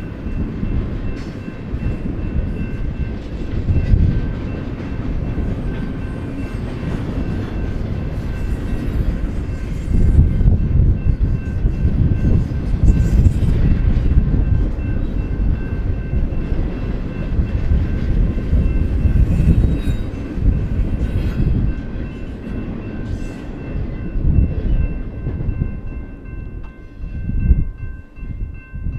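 Double-stack intermodal freight train's well cars rumbling and clattering past on the rails, the rumble easing briefly near the end. Grade-crossing bell ringing steadily underneath.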